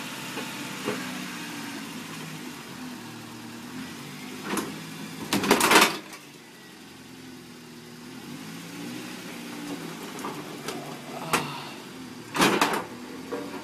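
Acura Integra's four-cylinder engine idling steadily, broken twice by loud short blasts of noise, about five and twelve seconds in.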